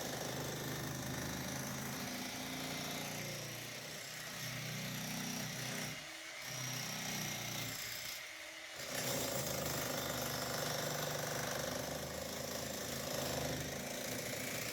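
Jackhammer running continuously, breaking up an old tank into rubble, with two brief pauses about six and eight and a half seconds in.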